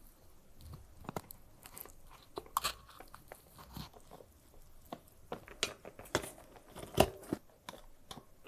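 Bicycle wheel making irregular clicking and crackling noises, sharp ticks at uneven intervals rather than a steady rhythm.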